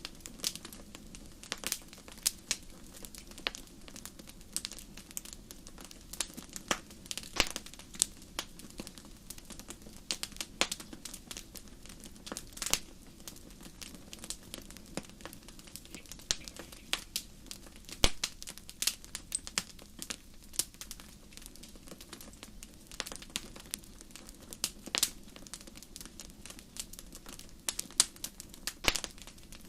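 Campfire crackling: irregular sharp pops and snaps from burning wood, several a second, with a louder pop about eighteen seconds in, over a soft steady hiss of the flames.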